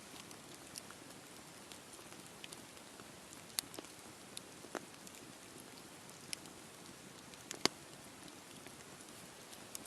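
Wood campfire burning: a steady hiss with scattered sharp pops and crackles, the loudest pop about three-quarters of the way through.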